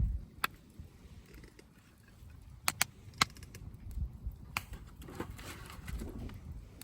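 Wood campfire crackling: scattered sharp pops and snaps of burning wood over a low rumble of the flames, with a quick double pop a little before the middle.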